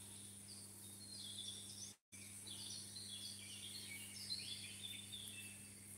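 Faint birdsong of short, high chirps and falling phrases over a steady low hum. The sound cuts out completely for a moment about two seconds in.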